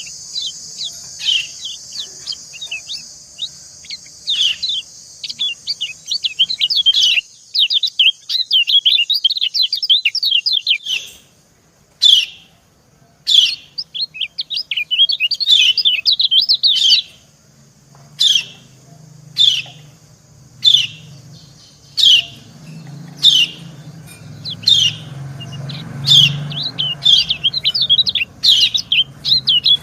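White-eyes (kecial) calling: short, sharp, down-slurred 'ciak' calls repeated about once a second, broken by bursts of rapid chattering twitter. These are the female calls that answer a male.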